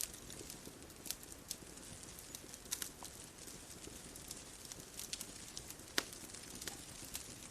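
Bonfire crackling: irregular sharp pops and snaps, the loudest about six seconds in, over a soft steady hiss.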